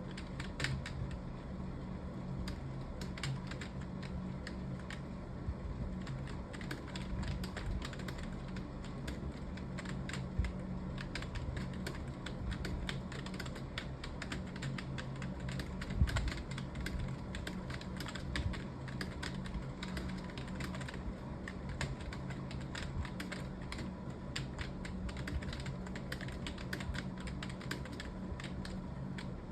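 Continuous fast typing on a computer keyboard: a dense, unbroken stream of key clicks over a steady low hum.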